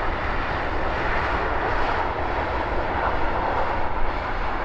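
Steady jet engine noise from an Airbus A319 airliner, a broad even rush with low rumble underneath.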